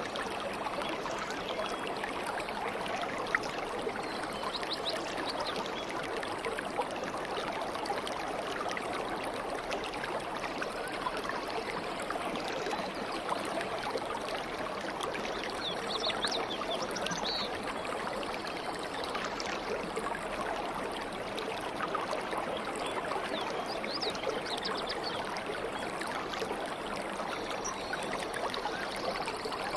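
A stream of water babbling and trickling steadily, with a few brief high bird chirps now and then.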